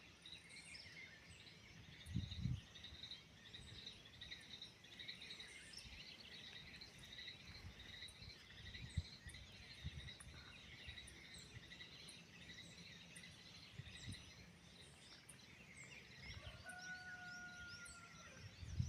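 Birds chirping and twittering throughout, many short calls over a steady high trill, with one drawn-out whistled note a little before the end. Soft low thumps now and then underneath.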